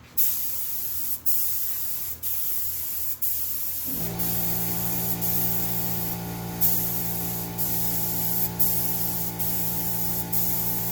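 A spray gun hissing in quick passes as it lays a light coat of PVA mold-release film, cut off briefly about once a second between passes. About four seconds in, a steady hum starts underneath and continues.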